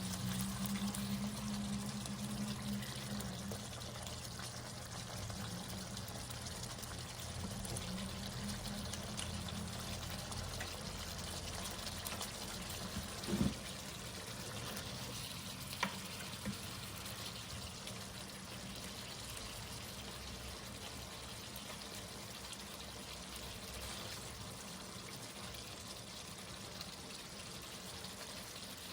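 Steady watery, trickling hiss, with a low hum that fades out over the first few seconds, a single thump about halfway through and a sharp click a couple of seconds later.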